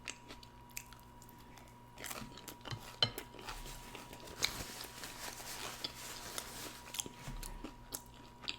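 Close-up eating sounds: a person chewing and biting food, with scattered sharp clicks that may be utensils against a dish.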